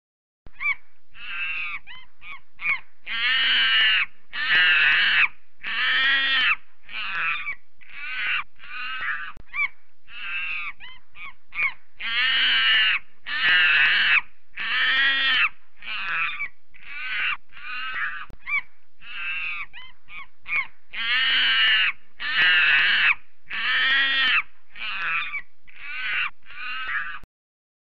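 Monkey calling: a long run of harsh, high screeching calls, some about a second long with shorter ones between, the same run of calls repeating about every nine seconds.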